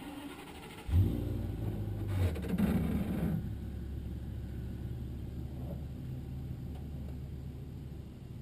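An engine starts about a second in, rises briefly, then settles to a steady idle.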